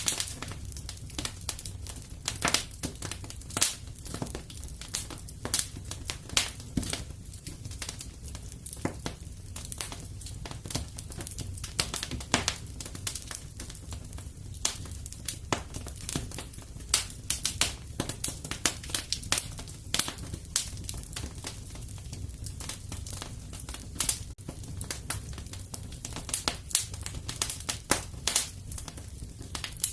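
Wood fire crackling in a fireplace: irregular sharp snaps and pops, several a second with some louder ones, over a low steady rumble.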